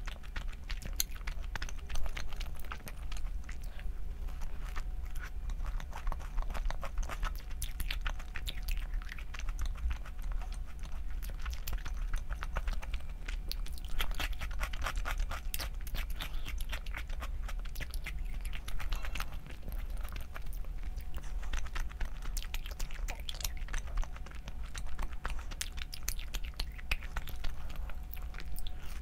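A person chewing and biting food close to the microphone, with a dense, irregular run of small crisp clicks and crunches.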